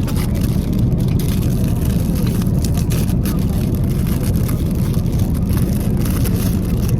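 Steady low rumble of vehicle cabin noise, engine and travel noise heard from inside, without change.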